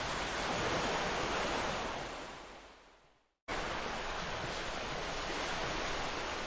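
Sea waves washing onto a beach, a steady rushing surf. About halfway through it fades out to silence, then cuts straight back in at full level, as at an edit or loop point.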